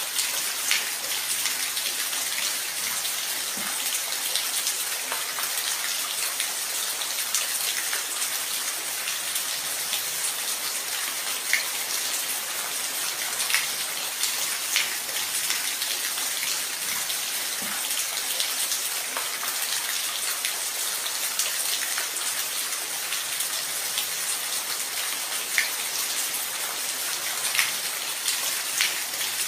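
Steady rain falling, a constant hiss with scattered sharper drips and taps of single drops.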